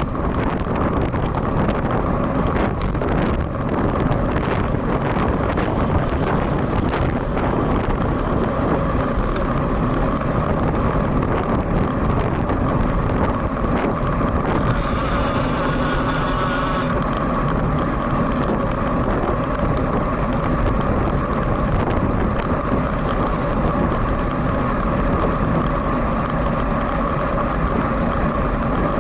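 Steady wind noise buffeting the built-in microphone of a bicycle-mounted action camera, mixed with road noise from riding in rain and strong wind. About halfway through there is a short, brighter hiss lasting about two seconds.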